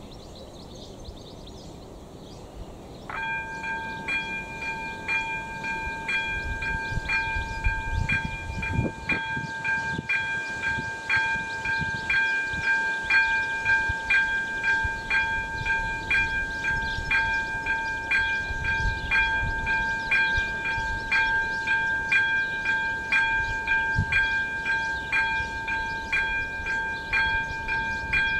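AŽD ZV-02 electronic level-crossing bell starting up about three seconds in, then dinging steadily about one and a half times a second over a held ringing tone. The crossing's warning has been activated for an approaching train.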